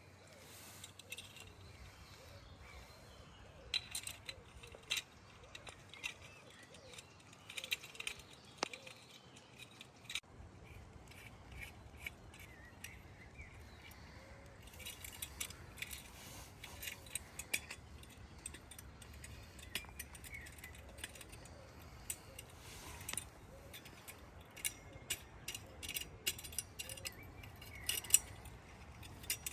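Light clicking and rattling of small hard objects being handled, in several short bursts, with faint bird chirps behind.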